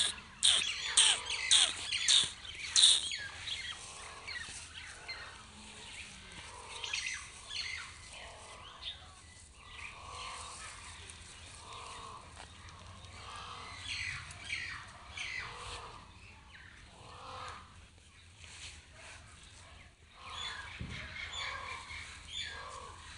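Birds chirping and calling, with a quick run of loud, short calls in the first few seconds, then softer scattered chirps.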